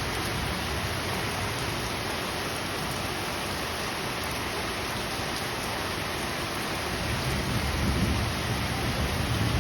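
Steady rain falling, an even dense hiss, with a low rumble swelling up about seven seconds in.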